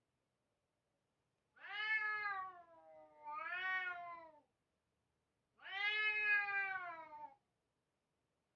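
A cat meowing twice in long, drawn-out calls; the first call dips and rises again partway through.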